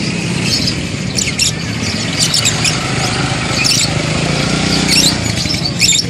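Caged birds giving scattered short, high chirps and squeaks over a low steady hum.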